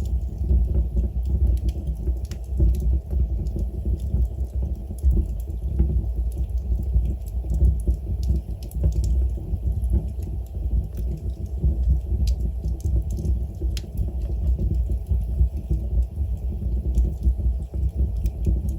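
Wood fire burning in a fireplace: a steady low rumble of the flames with many small, sharp crackles from the burning logs at irregular intervals.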